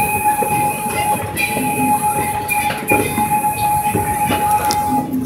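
Miniature zoo train running along the track with a few clicks from the rails, and a steady high-pitched tone held for about five seconds that stops just before the end.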